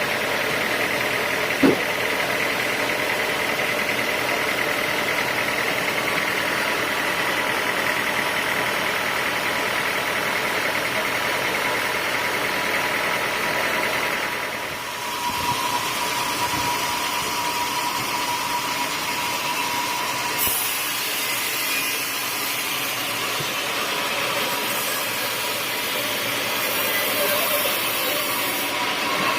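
Band sawmill running steadily, with one sharp knock about two seconds in. About halfway its steady whine drops to a lower pitch, and a high hiss joins it in the second half.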